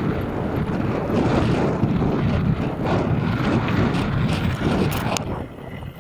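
Strong wind buffeting the microphone of a camera on a moving bicycle, a heavy low rumble that drops off sharply about five seconds in.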